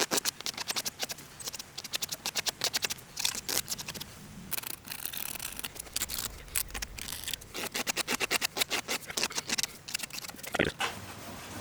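Quick repeated hand strokes scraping powder coat and zinc primer off a steel surface, working down toward bare metal to flatten it. There is a stretch of steadier rasping in the middle and a single louder knock near the end.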